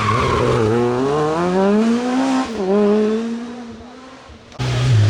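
Rally car engine accelerating hard through the gears, its pitch rising, dropping once at a gear change about two and a half seconds in, then rising again before fading away. Near the end the sound cuts suddenly to another engine running at a steady pitch.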